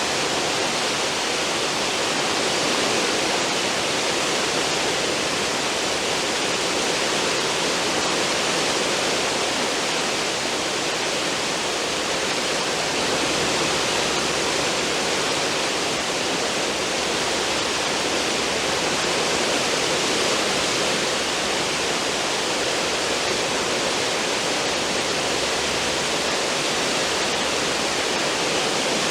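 Cruise ship's stern wake churning and rushing: a steady, dense roar of foaming water that swells and eases slightly.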